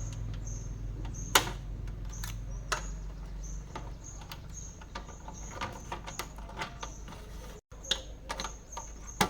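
Scattered sharp clicks and knocks of small parts and tools being handled, the loudest about a second and a half in, over a steady low hum.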